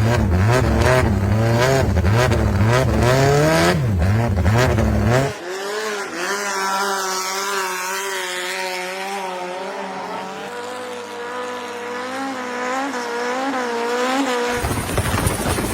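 High-performance engine revving hard in repeated blips, its pitch rising and falling about once a second. About five seconds in it changes abruptly to a thinner, higher engine note that wavers up and down, and the full, deep sound returns near the end.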